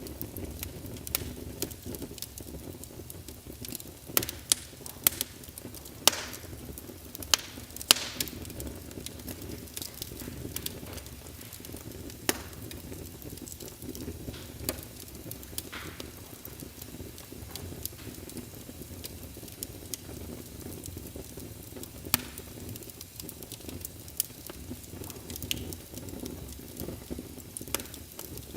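Wood fire burning in a fireplace: a steady low rumble and hiss of the flames with irregular crackles and pops, a cluster of louder pops a few seconds in.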